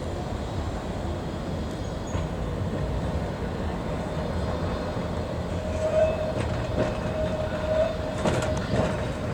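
Heritage electric tram running along the track: a steady low rumble, with a thin high tone joining about halfway through and a few sharp clicks near the end.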